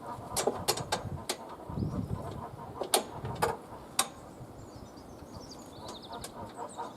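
Sharp metallic clicks and taps of a spanner and bolts on the tubular handle parts of a lawn mower during assembly: several in quick succession in the first second and a half, then three more a little later. Birds chirp faintly near the end.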